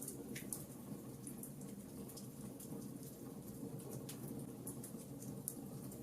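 Wood fire crackling: a steady low hiss of burning with many small sharp pops and snaps, several a second, a slightly bigger pop about half a second in.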